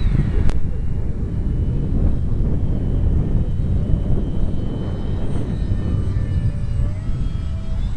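Heavy wind buffeting the microphone as a low rumble, with the thin high whine of an ultra-micro electric RC airplane's motor and propeller drifting slightly in pitch as the throttle changes. A single sharp click about half a second in.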